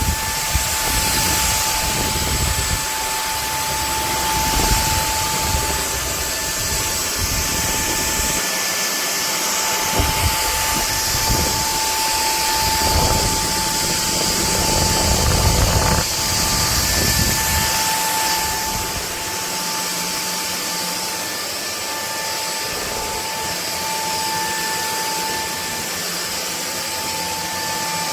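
Bulelink cordless stick vacuum running: a steady high motor whine over rushing airflow, with a low rumble that comes and goes as the head moves.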